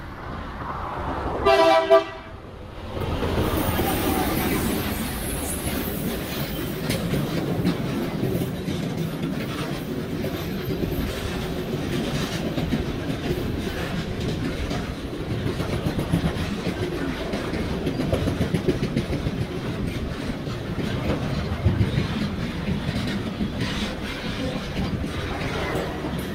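A Class 1550 diesel locomotive sounds its horn in one short blast about a second and a half in, then passes. A long train of car-carrier wagons follows, rumbling and clattering steadily over the rails.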